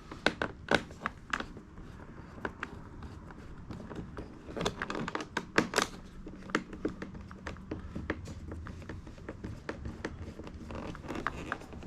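Irregular clicks, taps and knocks of hands and tools working on a car door's plastic trim and switch parts.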